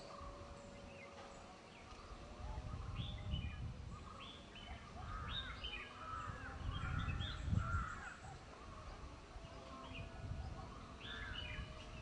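Several birds calling in short, repeated calls, busiest through the middle, over a low rumble that swells and fades.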